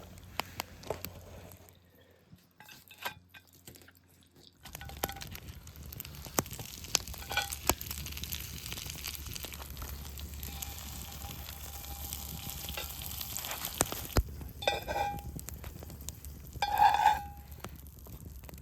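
Food sizzling in a Firebox cast-iron pan over a campfire, a steady frying hiss with small pops that sets in about five seconds in. Two short pitched sounds stand out near the end.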